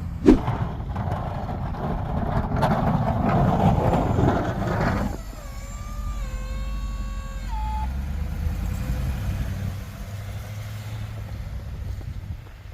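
Snow-plow truck's engine running under a loud rushing noise for about five seconds, with a sharp click right at the start. Then a steady whine for about two and a half seconds that jumps up in pitch as it stops, over the engine's low hum.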